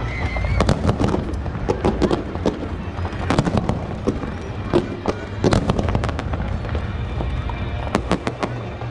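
Fireworks display: an irregular, rapid run of bangs and crackling, several each second, over a steady low rumble.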